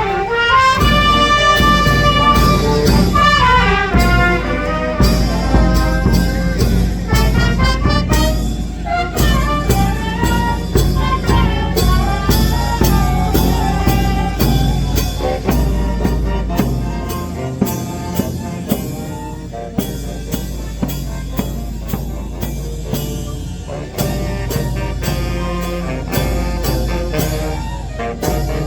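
A fanfarra, a brass-and-drum band, playing: trumpets and other brass carry the melody with held notes and a falling run about three seconds in, over steady drumming.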